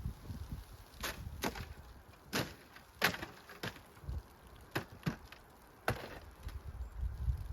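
Dry wood cracking and splintering in about eight sharp, irregularly spaced snaps, with a few dull low thumps in between.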